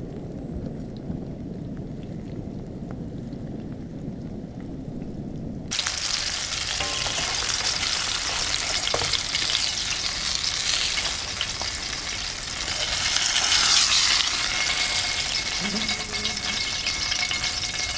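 A low rumbling noise for about six seconds, then an abrupt change to fish sizzling steadily in a frying pan.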